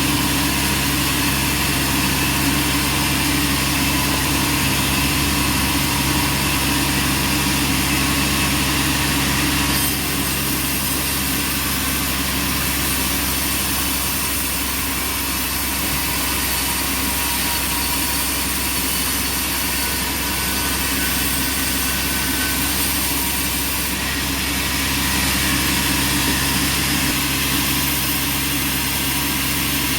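Band sawmill machinery running with a steady engine hum and a hiss over it; the level drops slightly about ten seconds in.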